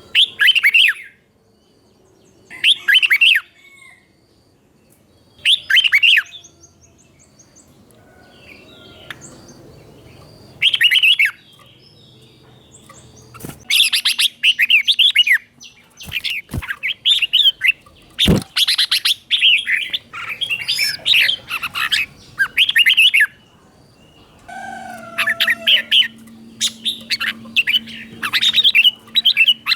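Red-whiskered bulbul singing its bright, whistled phrases: at first single short phrases a few seconds apart, then from about halfway a fast run of phrases one after another. A few sharp clicks sound near the middle.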